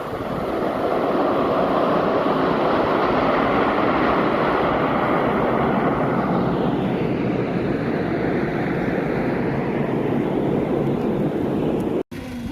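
Military aircraft flying past, its noise swelling about a second in, then sinking lower in pitch as it moves away. The sound cuts out abruptly near the end.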